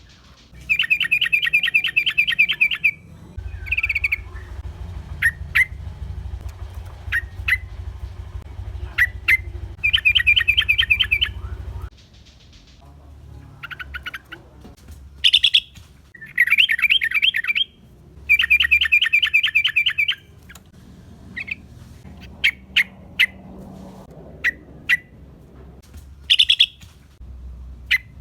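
Yellow-vented bulbul (trucukan) calling: four rapid chattering trills of two to three seconds each, with short sharp chirps scattered between them.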